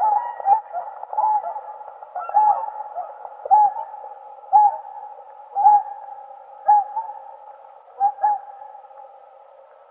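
Whooper swan calling: a series of loud, short, pitched calls about once a second over a steady fainter background. The calls stop a little before the end.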